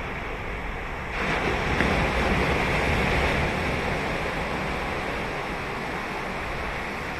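Ocean waves breaking on a beach: a wave crashes about a second in, and its wash slowly fades over the next few seconds.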